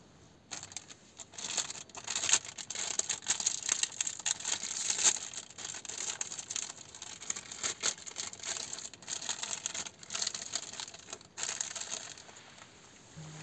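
Irregular crinkling and crackling, like material being crumpled or torn, that thins out near the end.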